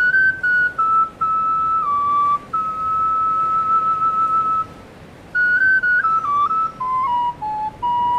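Background music: a solo flute-like melody of held notes, with one long note before a short break a little past halfway, then quicker notes stepping downward.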